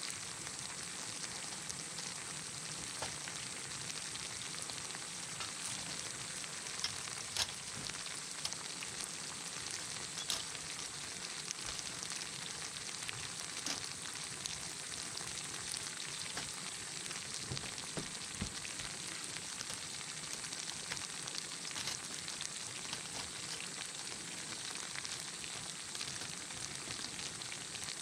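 Food sizzling in a hot pan: a steady frying hiss with many small crackles and pops throughout.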